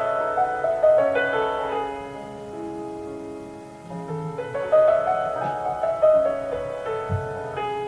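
Classical solo piano music: a gentle melodic phrase that rises and falls, then repeats about four seconds in.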